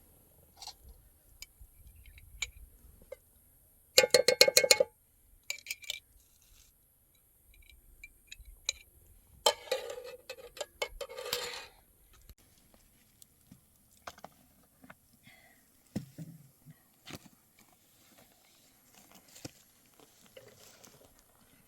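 Sparse metallic clinking and rattling: a quick ringing rattle about four seconds in, a longer clatter around ten seconds in, and scattered small knocks between.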